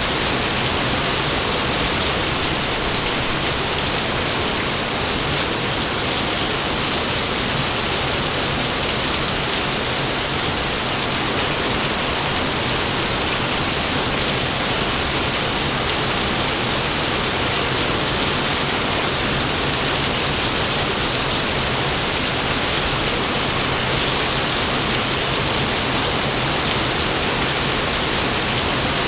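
Heavy rain falling steadily: a dense, even hiss of rain with no thunderclap or rumble.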